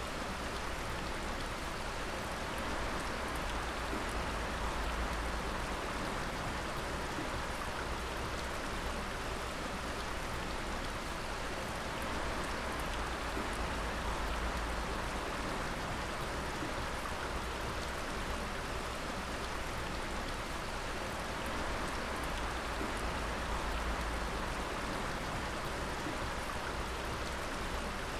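Water dripping steadily: many drops falling at once as a continuous even spatter, with a low rumble beneath.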